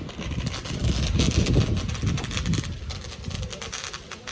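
Fireworks crackling and popping in a dense, irregular run, over a low rumble of wind buffeting the phone's microphone.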